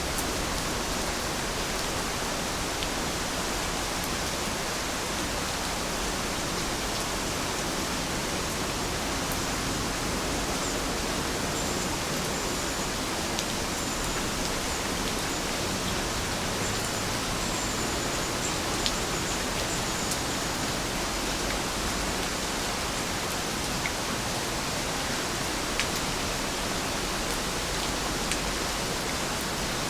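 Heavy rain falling steadily, an even hiss with a few sharper drop taps now and then.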